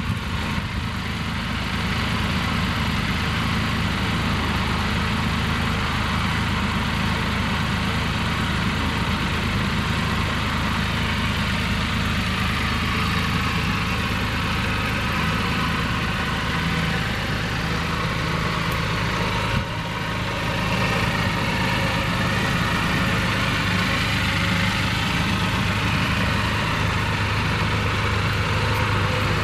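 2021 Can-Am Spyder RT Limited's Rotax 1330 inline three-cylinder engine idling steadily through its stock exhaust, with a brief dip about two-thirds of the way through.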